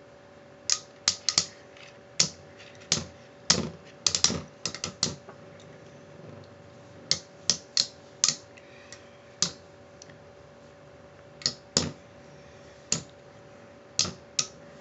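Two spinning Beyblade metal tops clashing in a stadium: irregular sharp clacks, thick between about three and five seconds in and sparser after, over a faint steady whir.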